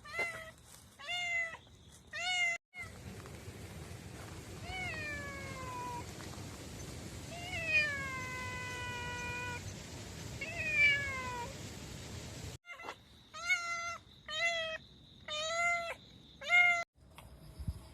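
Cat meowing repeatedly, about ten meows: some short, some longer and falling in pitch. The meows come in several spliced clips, with a steady hiss behind the middle stretch.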